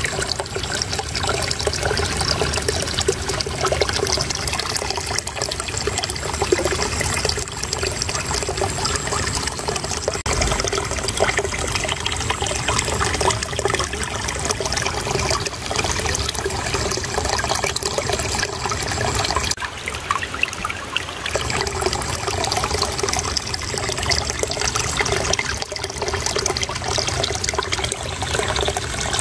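Small stream of water flowing and trickling steadily over stones, a dense continuous babble.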